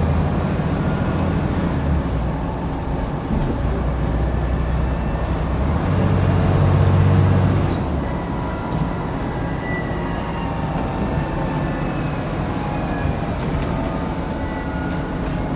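Scania N94UD double-decker bus's 9-litre diesel engine heard on board, pulling hard twice under acceleration with a faint high whine rising over the engine note each time. It eases to a lower, steadier drone about eight seconds in.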